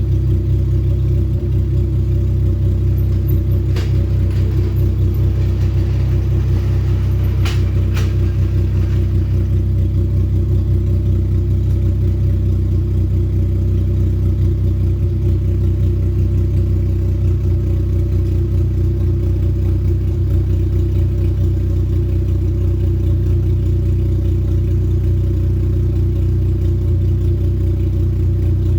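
Honda K24/K20 four-cylinder engine (K24 block with K20 head) idling steadily and loud on one of its first start-ups. A few light clicks are heard about 4 and 8 seconds in.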